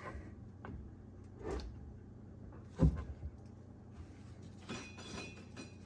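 A few scattered knocks and thumps, the loudest about three seconds in, as a wooden 2x4 is pried against the jet ski engine to slide it forward on its mounts and disengage it from the jet drive.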